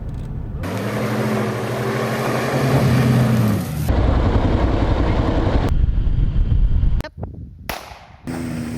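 Vehicle engine sounds from several short clips cut together. First an engine runs with its pitch slowly rising, then comes a rough, rumbling stretch of driving noise. After a brief near-silent gap, another engine runs steadily near the end.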